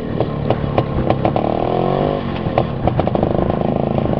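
IZh two-stroke motorcycle engine running under load on a rough, rutted dirt track. The revs climb from about a second in and drop back just after two seconds, over repeated knocks and rattles from the bike.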